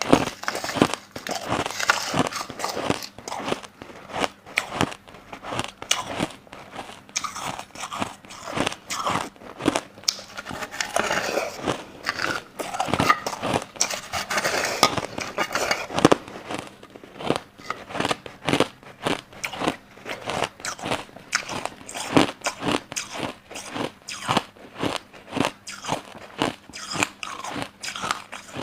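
Close-up crunching and chewing of crushed white ice: a rapid, irregular run of sharp crunches and cracks as the ice is bitten and chewed.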